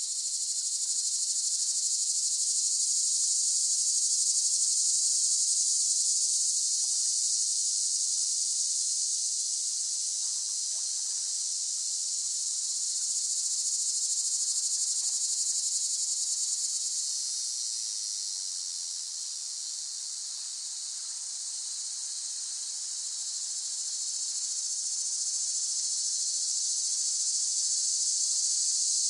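A chorus of cicadas buzzing in one continuous high-pitched drone. It dips a little about two-thirds of the way through, then swells back.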